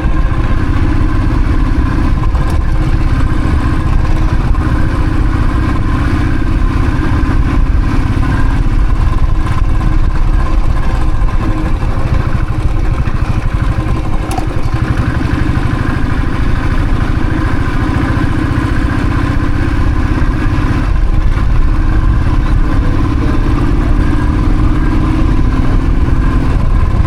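Royal Enfield Thunderbird's single-cylinder engine running on the move, its pitch shifting a few times as the speed changes.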